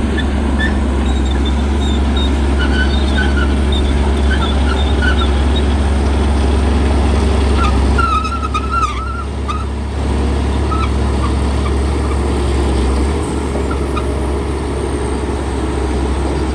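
Shantui bulldozer's diesel engine running steadily with a deep drone, with short high chirps and squeaks over it in the first half and around eight seconds in.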